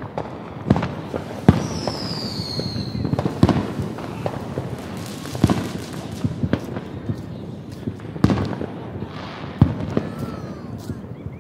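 Consumer fireworks going off: repeated sharp bangs, some loud and some fainter, and about two seconds in a high whistle from a whistling firework that falls in pitch for about a second and a half.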